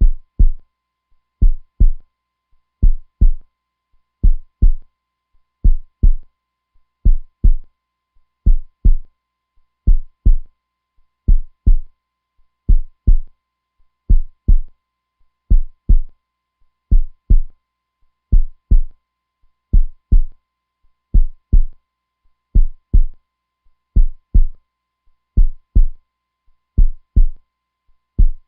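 Heartbeat sound, a steady slow rhythm of paired low thumps (lub-dub), each pair about a second and a half apart.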